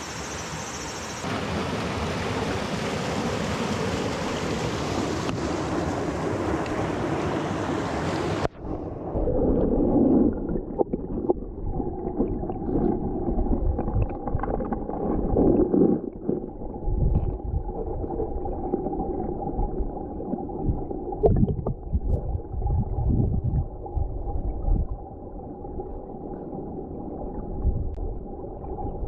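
Mountain stream water rushing, then about eight seconds in the sound switches abruptly to a muffled, low gurgling and bubbling of water heard underwater.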